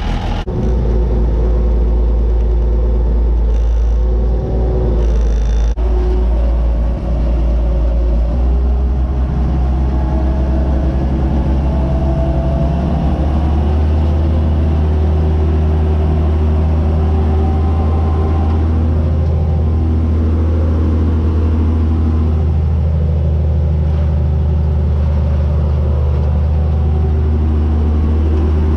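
White 2-150 tractor's Caterpillar V8 diesel engine running steadily under way, pulling a disc, with a heavy low rumble. About halfway through, its pitch steps up as the engine speed rises, and it holds there.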